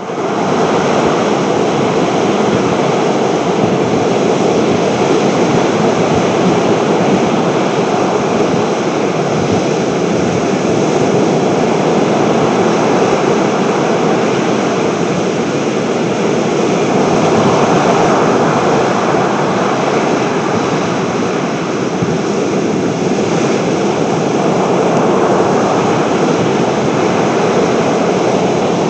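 Strong seafront wind and surf making a loud, steady rushing noise that swells and eases slowly.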